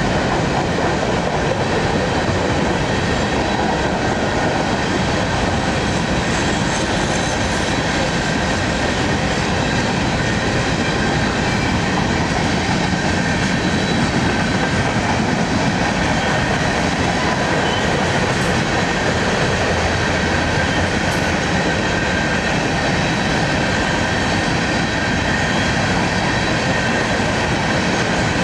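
Freight train of covered hopper cars rolling steadily past, a constant rumble of steel wheels on rail with faint thin steady high tones running over it.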